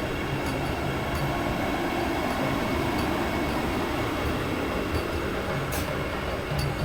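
Vande Bharat Express electric train set moving through the station, a steady running noise with a few scattered sharp clicks, the clearest near the end.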